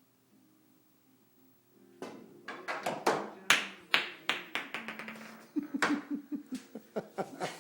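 Pool balls clacking and knocking in a rapid, uneven series of sharp clicks, starting about two seconds in: the shot is struck and the balls hit the cue sticks and each other.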